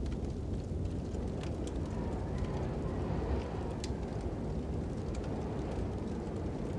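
Fire crackling, with scattered sharp pops, over a steady low rumble of wind; a faint whistle of wind wavers in the middle.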